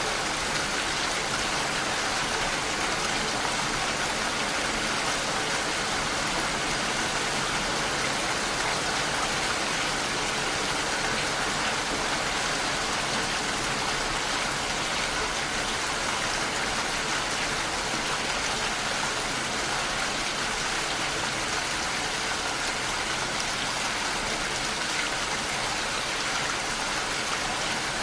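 Steady rain falling and pattering against a window pane, an even hiss with no single drops standing out.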